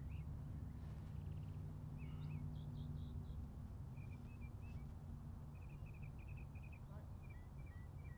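Small birds chirping in runs of short, quick high notes, a run every second or two, over a steady low background hum.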